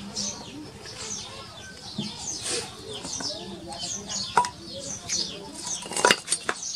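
Small birds chirping, a steady run of quick falling chirps several times a second. A sharp click comes about two-thirds of the way in, and a few more near the end.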